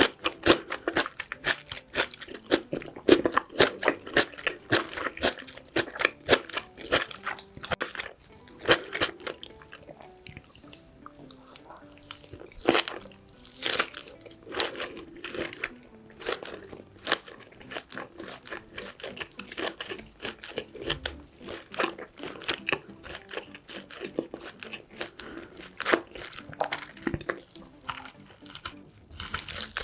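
Close-miked eating of braised pork back ribs with kimchi: a dense run of chewing, biting and crunching sounds with sharp mouth clicks, sparser for a few seconds around the middle.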